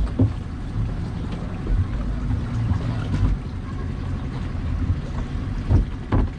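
Ferry boat's engine running with a steady low rumble, with wind buffeting the microphone and a few small knocks.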